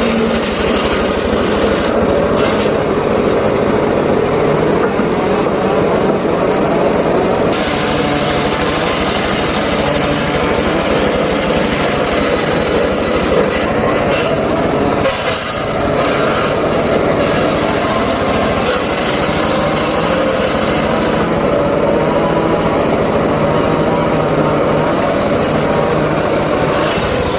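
Small engine of a wood-cutting saw running steadily, with a brief dip about fifteen seconds in.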